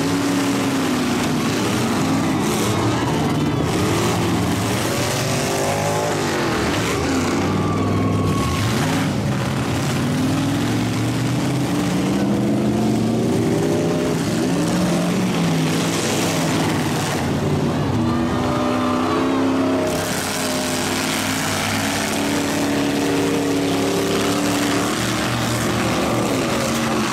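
Several demolition-derby truck engines revving up and down at once, their pitches overlapping and rising and falling continually.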